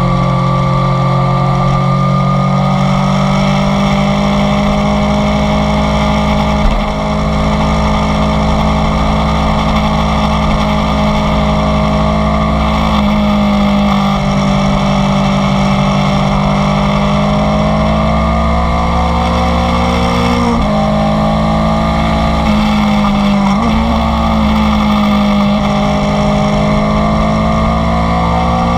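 Inline-four sport motorcycle engine under way, running at fairly steady revs that slowly rise and fall, with a few brief dips in the engine note where the throttle is eased or a gear is changed.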